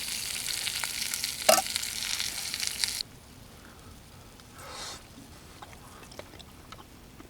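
Food sizzling in a pan with scattered pops, cutting off abruptly about three seconds in. Then quiet, with a faint rustle and a few light ticks.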